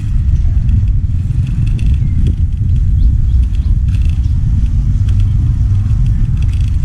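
Steady low rumble of wind buffeting the microphone while riding along a road, with faint clicks and rattles on top.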